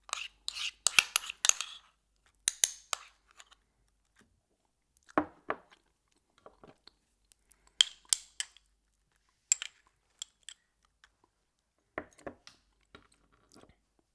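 Close-miked eating of crunchy food: chewing and crunching in short clusters of crisp crackles with quiet gaps between them. The densest, loudest cluster comes in the first two seconds.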